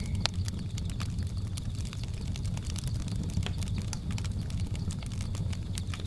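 Wood fire crackling, with frequent sharp irregular pops over a low steady rumble of the burning fire.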